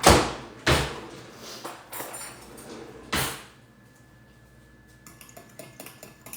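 A few loud knocks in the first few seconds, then a fork clicking quickly and lightly against a bowl as a vinaigrette is whisked.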